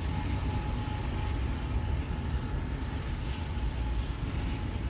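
Freight train passing with a steady low rumble and a faint steady whine above it.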